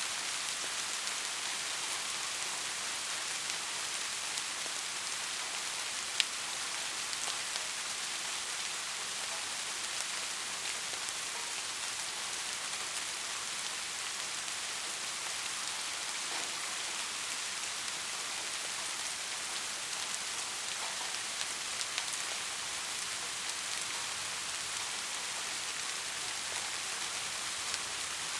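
Steady heavy rain: a dense, even hiss with scattered sharp ticks of individual drops, one louder tick about six seconds in.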